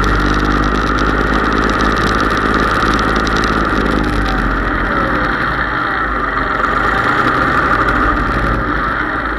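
Case IH 3220 tractor engine running at a steady speed, with a constant high whine over the engine note.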